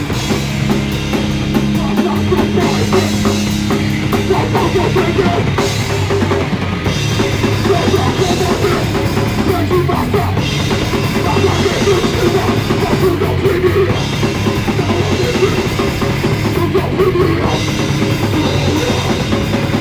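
Live band playing loud rock music with a full drum kit, recorded on a phone.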